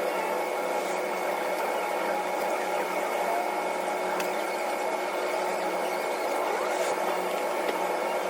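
Steady mechanical running hum: a constant whir made of several fixed tones, with a few faint clicks over it and no change in level.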